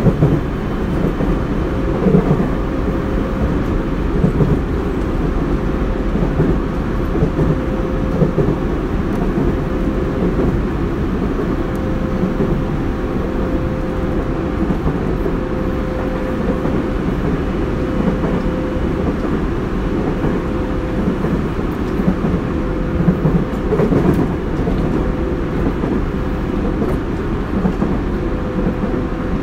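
Running noise inside a Tobu 30000 series electric train's motor car: a steady rumble of wheels on rail and car-body noise, with a faint steady hum in the middle register that fades out a little past halfway.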